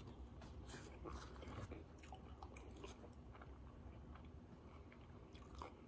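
Faint chewing and biting of a fried potato wedge close to the microphone: a scatter of soft, short mouth clicks.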